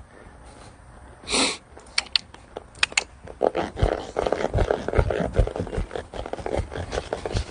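A horse moving under a rider: irregular low thuds of hooves on the arena footing, with creaks and rustle from the tack, getting louder about three and a half seconds in. A short breathy blow about a second in.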